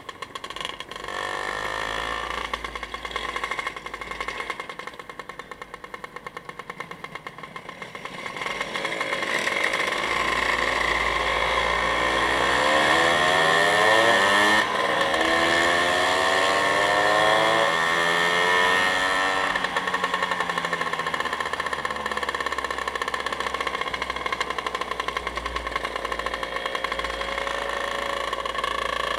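Motorcycle engines running on the move, with road and wind noise. About eight seconds in it grows louder and the engine note rises and falls for around ten seconds before settling to a steady drone.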